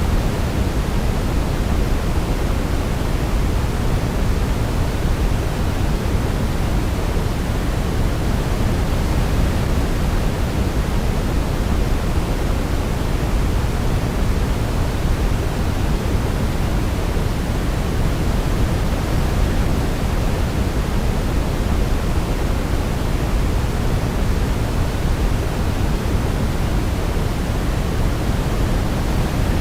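Steady sleep white noise: an even, unchanging hiss, heavier in the low end, with no melody heard over it.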